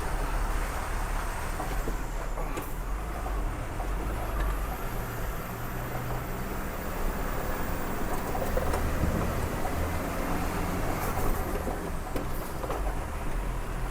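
Truck engine running steadily at low speed on a rough, broken road, with a few faint knocks.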